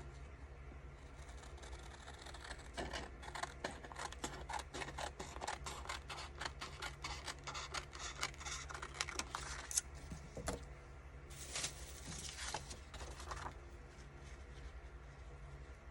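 Scissors cutting paper: a run of quick snips, then a longer rustle of paper being handled.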